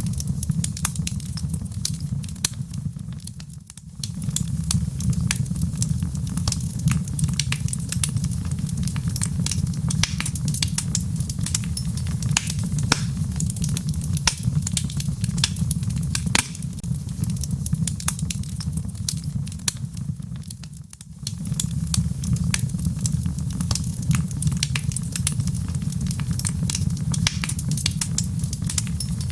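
Wood logs burning in a fireplace: a steady low rumble of the fire with constant sharp crackles and pops. The sound dips briefly twice, about three seconds in and about twenty seconds in.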